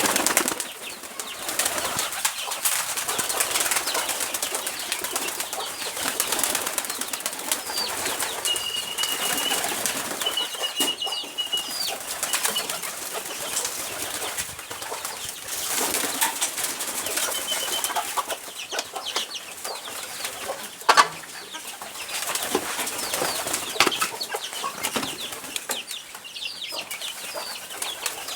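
Pigeons flapping their wings and fluttering about, with many quick rustles and flaps and a few short, high, steady whistling calls in the middle. A single sharp knock stands out about three-quarters of the way through.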